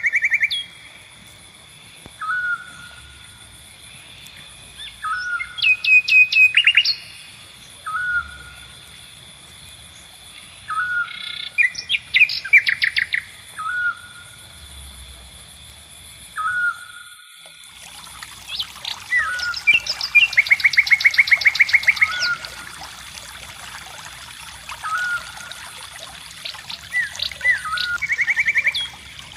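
Several wild birds calling. One repeats a short, hooked note about every two and a half to three seconds, while others give bursts of fast, rattling trills, the longest about two-thirds of the way in. A steady high-pitched tone runs underneath.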